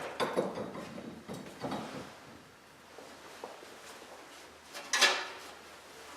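Steel winding bars clanking in a garage door torsion spring's winding cone as the spring is wound up by hand: a few short knocks in the first two seconds and one sharp, ringing clank about five seconds in.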